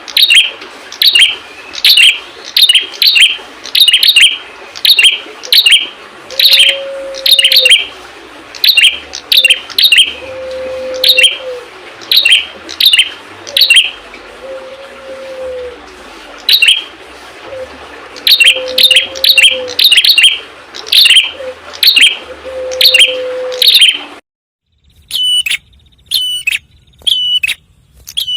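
Red-headed prenjak (a small Indonesian prinia-type songbird) calling: loud, sharp chirps repeated about twice a second, often in quick pairs and runs. A lower drawn-out whistle recurs in the background. About four seconds before the end the recording cuts out briefly and fainter chirps resume.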